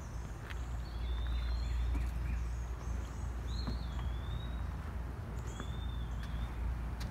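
A songbird singing a short, repeated whistled phrase about every two seconds, over the scattered taps of footsteps on a wooden bridge deck and a steady low rumble.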